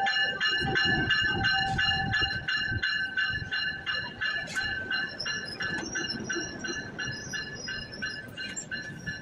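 Commuter train pulling into a station and slowing down: a steady high metallic squeal of several tones from the wheels and brakes, over a regular clicking of the wheels on the track that slowly spaces out and grows quieter as the train comes to a stop.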